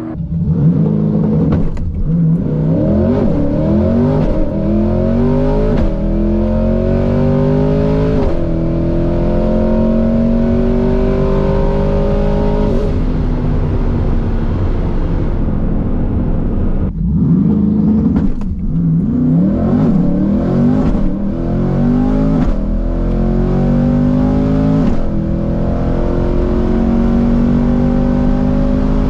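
A high-horsepower drag car accelerating hard down the strip, its engine note climbing and dropping back at each upshift. It goes through a quick run of shifts, then a second series of rising pulls later on.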